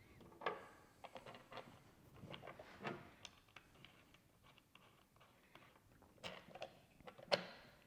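Faint, scattered clicks and taps of small hardware being handled as bolts are started by hand into tab nuts.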